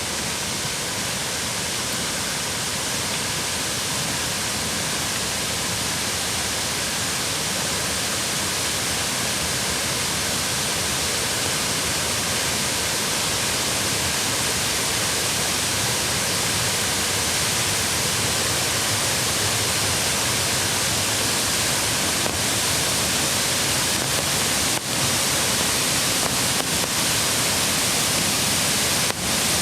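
Mountain creek water rushing in a steady, even roar of flowing water that grows slightly louder.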